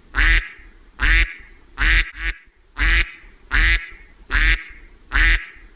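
A duck quacking: eight short quacks about one every three-quarters of a second, two of them in quick succession about two seconds in.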